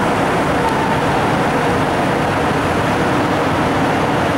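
MTR M-Train electric multiple unit running into a station platform close by: a steady, loud rumble of wheels and running gear with faint whining tones.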